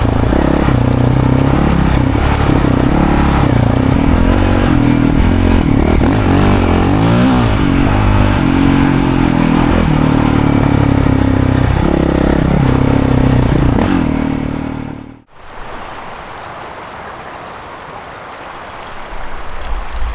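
Dirt bike engine running under the rider, its revs rising and falling as he rides. About fifteen seconds in it cuts off abruptly to a quieter, steady rushing noise.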